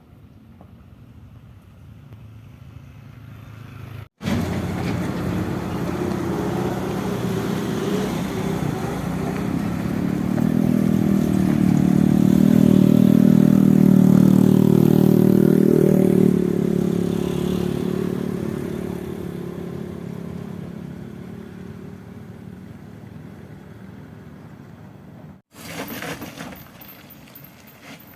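Heavy sand truck's diesel engine working hard under load on a steep climb. It grows louder to a peak about halfway through, then fades away as the truck passes.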